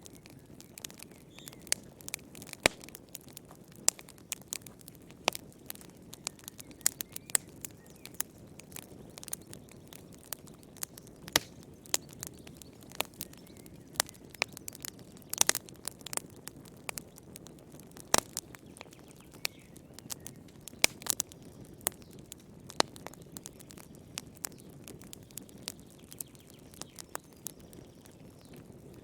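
Wood fire in a fireplace crackling, with irregular sharp pops and snaps over a soft, steady low rush of the flames.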